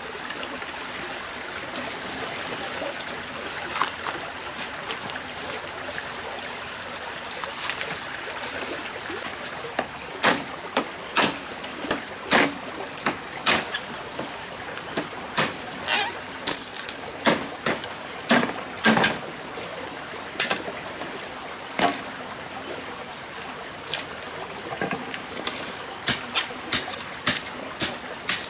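A stream running steadily. About a third of the way in, a run of sharp, irregular knocks or taps begins, roughly one a second, louder than the water.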